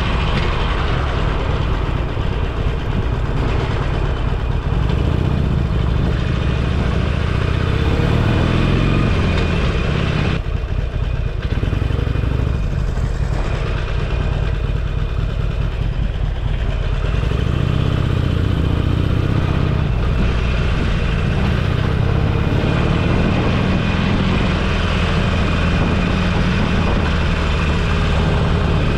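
Motorcycle engine running steadily while riding. The engine note dips about ten seconds in and climbs again a few seconds later.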